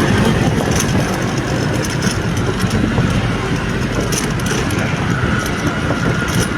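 Motor vehicle running on the road with steady engine and wind noise, heard from the vehicle while riding. A faint steady whine joins about five seconds in.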